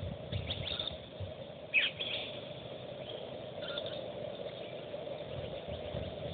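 Birds chirping, a few short high calls, one sweeping downward about two seconds in, over a steady faint background hum.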